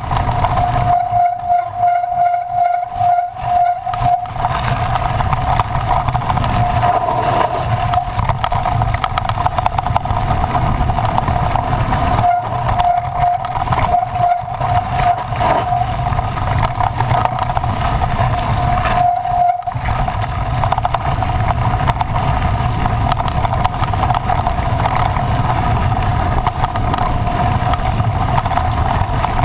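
A vehicle engine running steadily, with a low hum and a constant whine.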